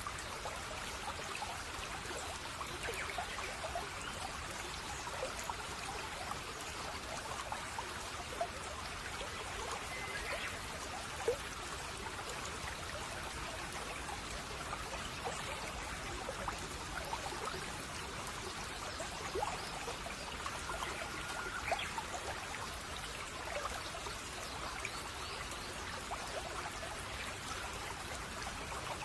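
Shallow brook babbling and trickling steadily over stones, with a couple of faint, brief bird chirps.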